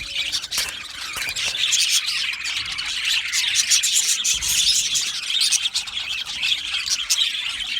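A colony of budgerigars chirping and warbling together, a dense unbroken chatter of many birds at once.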